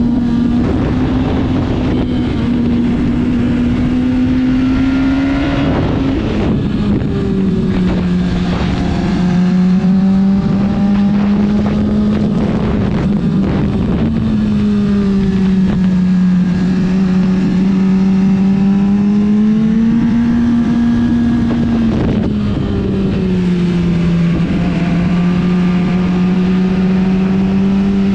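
Sport motorcycle engine running hard at steady high revs, heard from the bike over heavy wind rush. The engine note drops sharply about six seconds in and again near the end, as with upshifts, and climbs back about halfway through.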